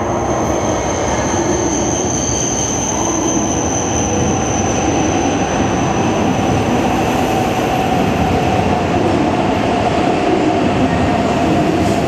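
Shinkansen train moving along the platform, a steady loud rumble with a high whine that fades out and a lower motor whine that slowly drops in pitch.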